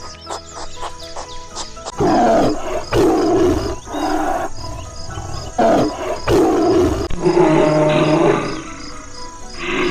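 A big cat growling and roaring in a series of short, loud, rough calls starting about two seconds in; the last two calls are longer. Background music with a steady beat plays underneath, and the first two seconds are music alone.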